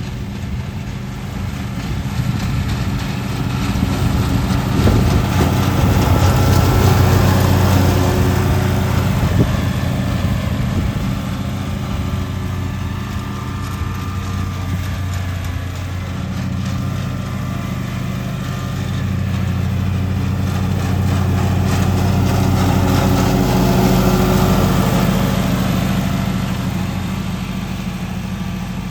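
Lawn mower engine running steadily under load, growing louder twice as the mower passes close by.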